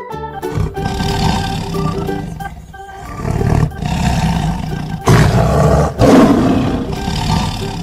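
Tiger roaring and growling in a series of long, loud roars, the loudest in the second half, over soft background music.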